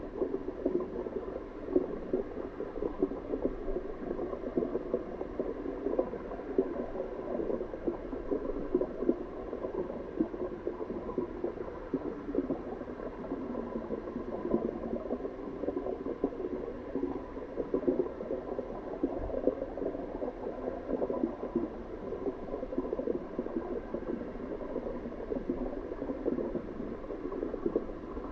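Water bubbling and gurgling steadily, a constant dense burble with no pauses.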